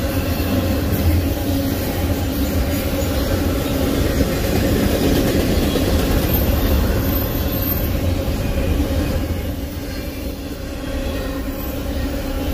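Freight train of double-stack container cars rolling past: a steady rumble and rattle of wheels on rail, with a faint wheel squeal running through it.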